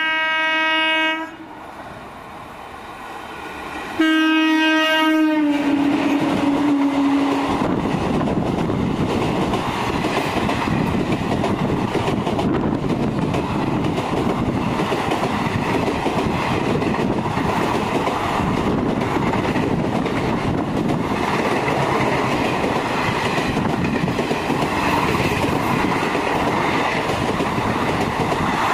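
A passing express train's locomotive horn sounds twice: a short blast, then a longer one about four seconds in whose pitch drops as the locomotive goes by. After that comes the steady rumble of a rake of ICF passenger coaches running past on the track.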